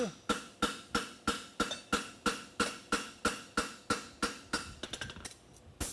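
A forging hammer striking a double-calked hind horseshoe on the anvil in a steady rhythm of about three blows a second, each blow ringing, while the shoe is shaped to put flow into it. The blows stop about five seconds in, followed by a few lighter taps.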